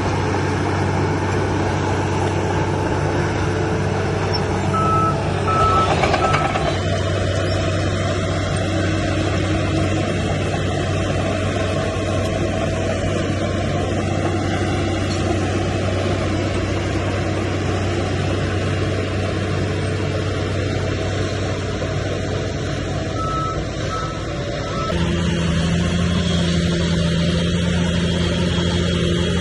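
Heavy diesel engine of earthmoving machinery running steadily, with two short runs of three reversing-alarm beeps, one about five seconds in and one later on. About 25 seconds in the engine works harder and its note grows louder.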